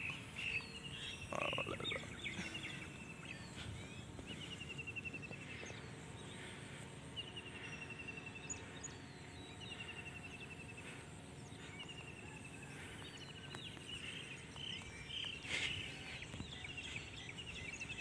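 Birds calling over open farmland: a short rattling trill repeated every second or two, with scattered chirps and a low steady outdoor background. There is a brief bump near the end.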